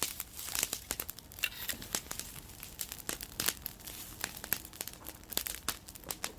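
Wood campfire burning, with dense irregular crackling and popping from the burning wood.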